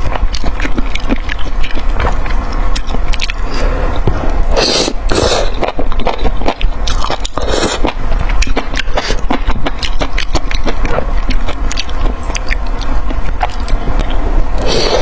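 Close-miked eating: chewing with a dense run of sharp crunching clicks, and a few louder noisy bursts about five and seven and a half seconds in, over a steady low hum.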